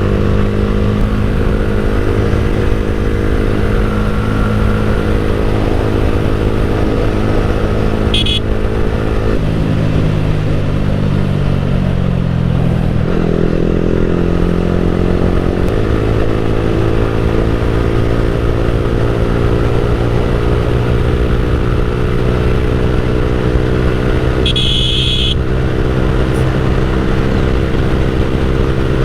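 Motorcycle engine running steadily through a Leo Vince GP Corsa full-system exhaust with the dB killer removed, its note dropping and then settling again about ten to thirteen seconds in. A brief high-pitched tone sounds twice.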